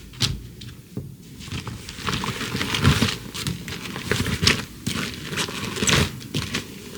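Irregular crunching, rustling and scraping sounds, sparse at first and coming thick and fast from about two seconds in.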